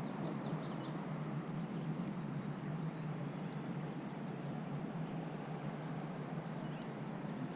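A few birds chirping: short, high chirps and whistles, a cluster at the start and single calls scattered later, over a steady rushing outdoor noise.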